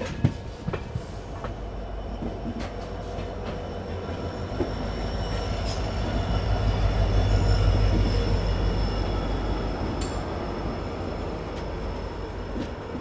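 Passenger train running through a junction, heard from on board: a steady rumble of wheels on rail with faint wheel squeal. A few sharp clicks over the rail joints come in the first second or so. The rumble grows louder to a peak a little past the middle, then eases.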